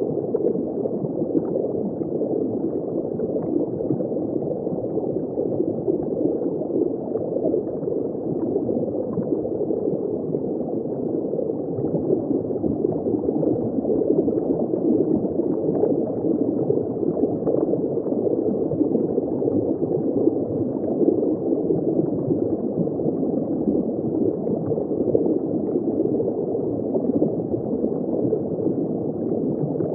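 Underwater ambience from just below a shallow surface: continuous dense bubbling and gurgling, muffled and steady, with no high tones.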